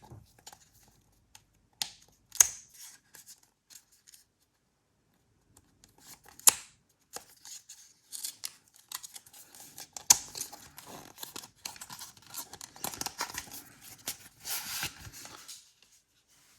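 Retail packaging of an SSD being opened and handled: a few sharp snaps or snips in the first half, then a longer stretch of crackly rustling and clicking from about eight seconds in.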